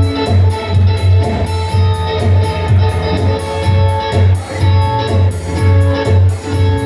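Live band music without vocals: guitar playing over a steady, evenly pulsing double bass line.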